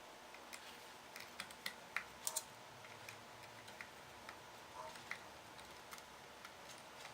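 Scattered light clicks and taps of small parts and screws being handled while a 12-inch PowerBook G4 laptop is taken apart by hand, with a quick cluster of sharper clicks about two seconds in.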